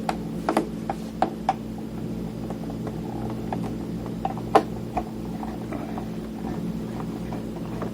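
Irregular small clicks and taps of a screwdriver working screws and plastic casing parts while a Tascam Portastudio 414 MKII is taken apart, with the sharpest tap about four and a half seconds in. A steady low hum runs underneath.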